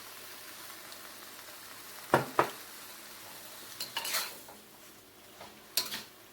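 Chicken and basil stir-frying over high heat: a steady sizzle, with a utensil knocking and scraping against the pan, two sharp knocks about two seconds in and more scrapes later.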